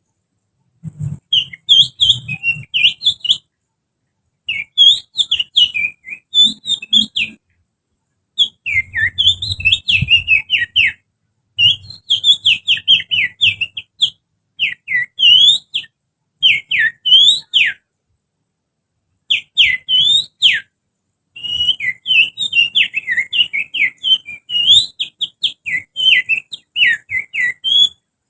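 A person whistling through the fingers, imitating the song of an oriental magpie-robin: quick sliding whistled notes in runs of two to three seconds, with short pauses between them.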